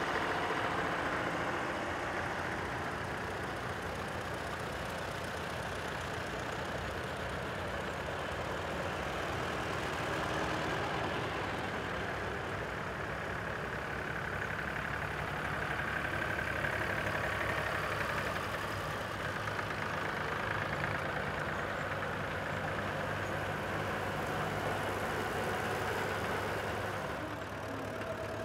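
Vintage tractor engine running steadily at idle, with a steady low hum throughout.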